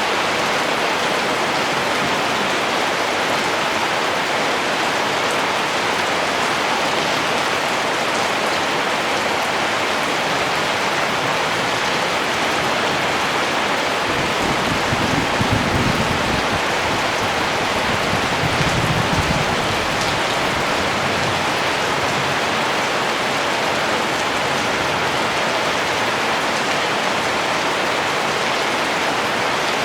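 Steady rain falling, an even hiss, with two short low rumbles about halfway through.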